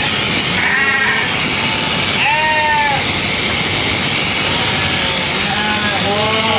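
Sheep bleating, several separate calls with the loudest about two and a half seconds in, over a steady loud background noise.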